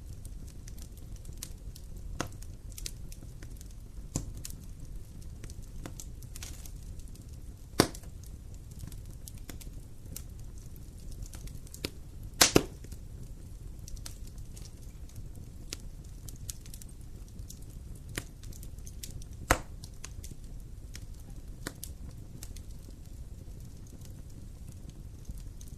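Wood campfire burning: a low steady rumble with irregular crackles and sharp pops from the burning logs, the loudest a double pop about halfway through.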